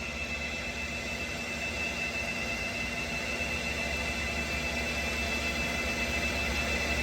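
Steady machine whir with a low hum and a thin constant high whine, slowly growing a little louder.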